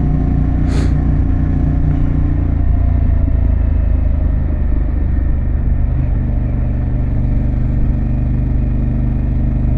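Harley-Davidson Pan America's Revolution Max 1250 V-twin running under way through a Vance & Hines exhaust, a steady engine note whose pitch pattern changes about two and a half seconds in. A brief hiss sounds under a second in.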